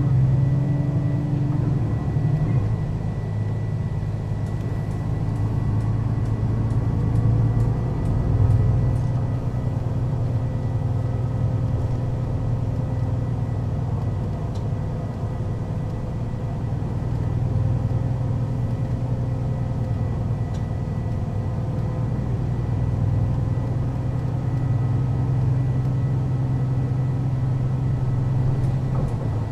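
Mercedes-Benz O 530 Citaro city bus's diesel engine running steadily, with small swells in level and a faint steady high whine over the drone.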